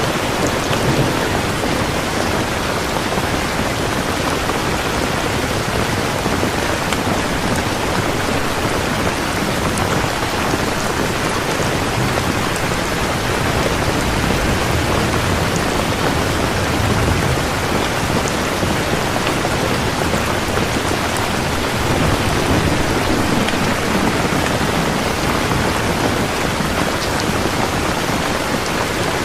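Steady, heavy rain falling, a dense even hiss of drops that does not let up.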